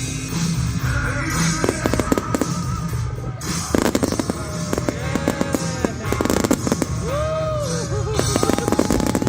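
Fireworks going off in rapid crackling bursts over music with a steady beat, with whistling rockets gliding in pitch in the second half.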